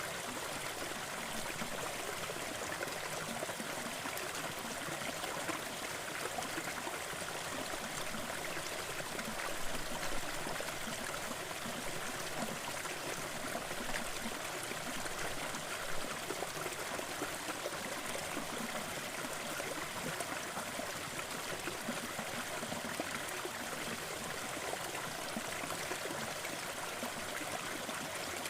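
Small forest waterfall splashing and trickling steadily.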